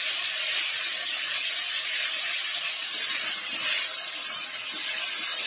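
Potato pieces sizzling in hot oil in a steel kadhai: a steady, even hiss.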